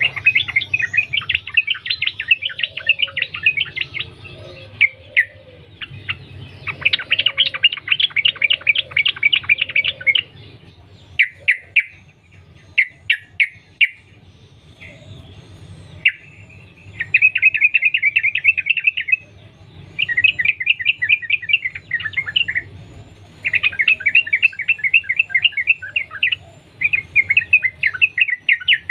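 Yellow-vented bulbul (trucukan) singing long, rapid runs of chattering notes strung together into phrases of a few seconds each, with short pauses between them, the continuous 'sambung ropel' style of song.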